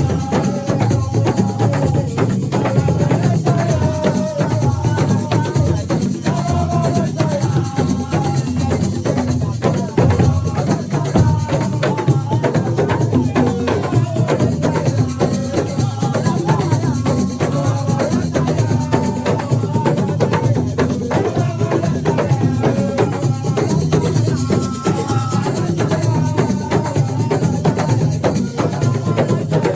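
Live assiko music: hand drums and shaker rattles keeping a steady, busy beat, with voices singing over it.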